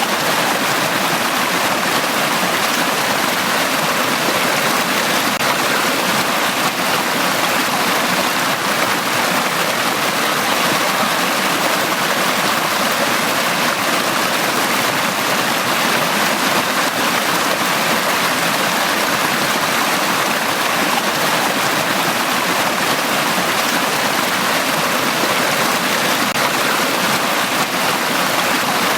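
Valley stream water flowing in a steady, even rush.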